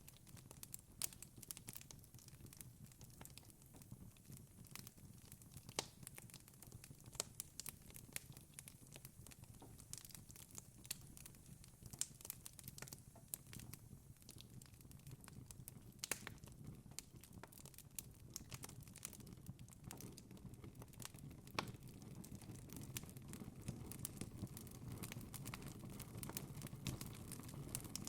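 Wood fire burning in a fireplace, crackling with irregular pops and snaps over a low, steady rumble of flame.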